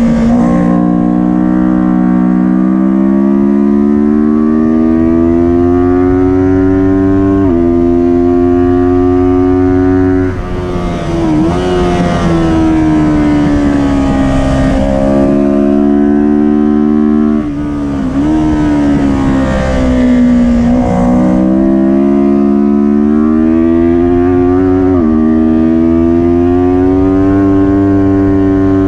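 Kawasaki Ninja 400 racing motorcycle's parallel-twin engine at full throttle, its pitch climbing steadily through each gear and dropping abruptly at upshifts. Twice the engine note falls and wavers briefly, as revs drop off and are blipped back up on downshifts into corners.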